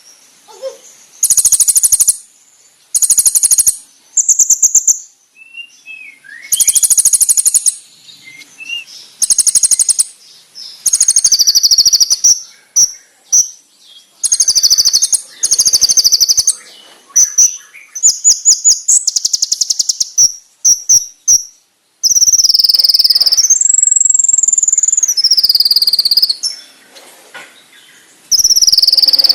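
Kolibri ninja (konin) sunbird song for bird tutoring: sharp, loud, very high buzzy trills in repeated short bursts, mixed with insect-like rattles. Near the middle come runs of quick ticks, and later a longer trill that rises and falls in pitch.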